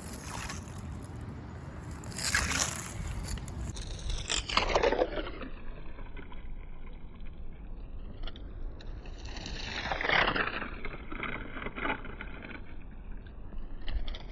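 Toy finger dirtbike pushed by hand through shallow puddles and wet grit, giving several short scrapes and sloshes, with wind rumbling on the microphone underneath.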